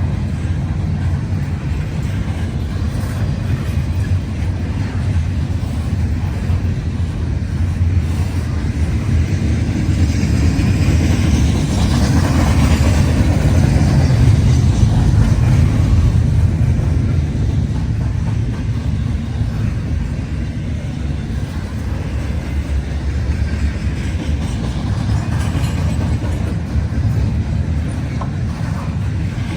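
Freight train rolling past: a steady low rumble of railcars on the track, swelling to its loudest about halfway through and easing off again.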